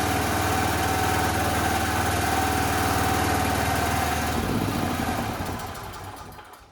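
Generac GP3250 portable generator's small engine running at a steady speed and rattling like crazy on its first test fire after years of neglect. About four seconds in it is shut off and winds down to a stop.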